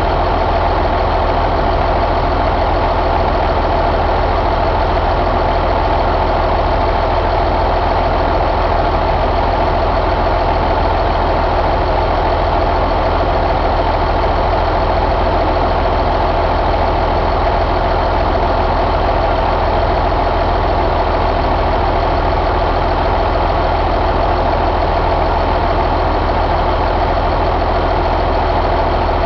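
Caterpillar C15 inline-six diesel engine idling steadily at an even speed, with no revving.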